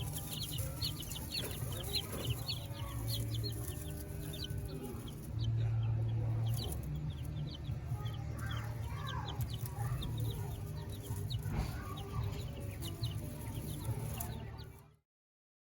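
Baby chicks peeping, many short high chirps several a second, with a steady low hum underneath. The sound cuts off abruptly near the end.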